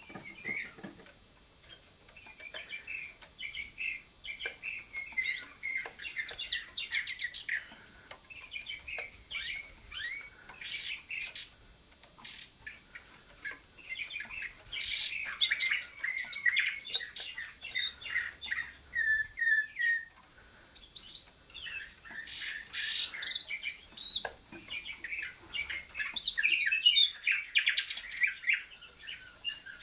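Caged canaries and a young nightingale singing long, rapid, warbling and trilled song phrases, several seconds each, broken by short pauses.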